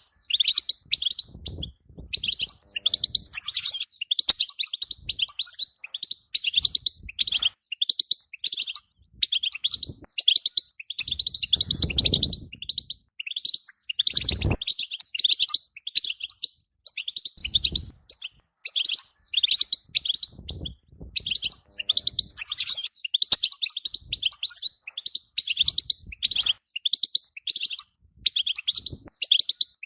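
Caged European goldfinch singing a continuous fast, twittering chirping song. A few short low thuds come through now and then, the clearest about twelve and fourteen seconds in.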